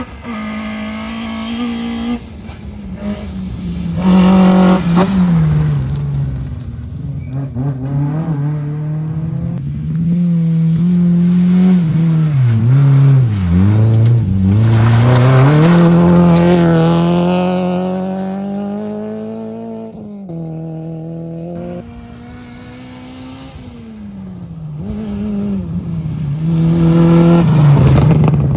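Rally car engine at full throttle on a gravel stage, revving up through the gears and dropping in pitch on lifts and braking. One deep dip about halfway is followed by a long climb in revs. The sound swells and fades several times as cars come close and pass, loudest near the end.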